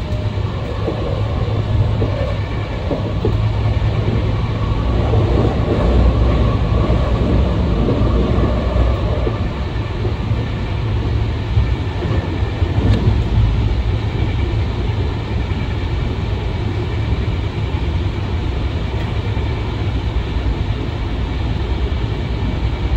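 Hankyu 9000 series electric train running on the line, heard from just behind the driver's cab: a steady, loud rumble of wheels and running gear that swells for a few seconds near the start.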